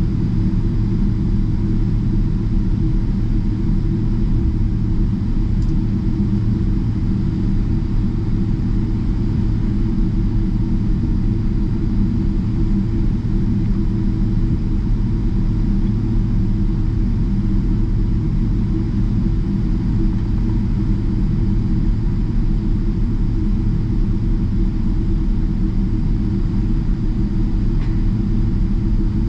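Steady low rumble heard inside the cabin of a Boeing 777-300ER taxiing, holding an even level with no rise in engine power.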